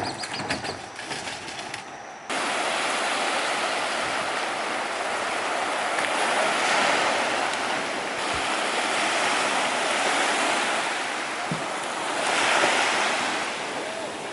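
A couple of seconds of small clicks and knocks, then an abrupt switch to a steady rushing of wind and sea water. The rushing cuts off suddenly near the end.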